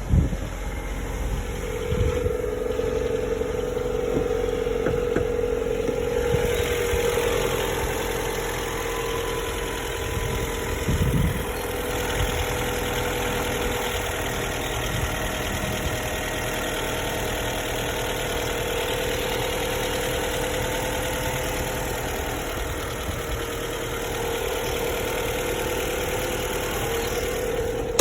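2019 Jeep Cherokee engine idling steadily on a cold start, with a steady hum running through it from about a second in.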